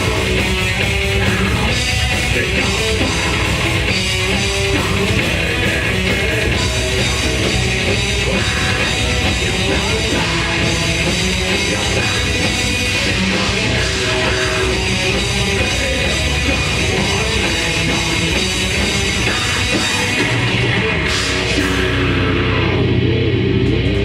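Death metal band playing live: heavily distorted guitars, bass and drum kit, loud and dense. Near the end the drums drop away and a low note rings on.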